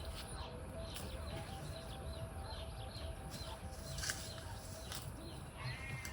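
Small birds chirping on and off, over a low background rumble, with a few faint clicks.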